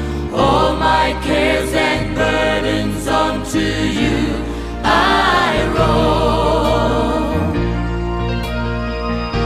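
Gospel song: singing with long, wavering vibrato notes over instrumental backing with a steady bass line.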